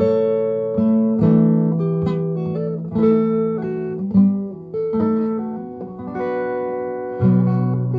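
Acoustic guitar strummed, chords struck about once a second and left ringing. The guitar is slightly out of tune, and the player judges that it sounds bad.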